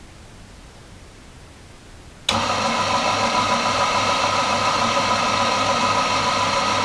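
Electric coffee grinder switched on with no beans in it, its motor starting abruptly a couple of seconds in and then running steadily with a whine of several tones and an evenly pulsing low hum.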